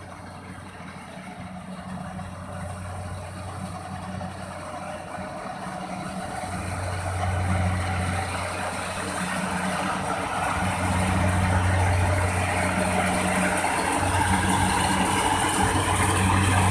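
Kubota rice combine harvester's diesel engine running with a steady low hum, growing steadily louder as the machine comes closer.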